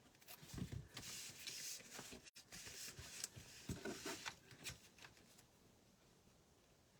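Paper and cardstock being handled on a tabletop: irregular rustling with light taps and clicks for about five seconds, then quiet room tone.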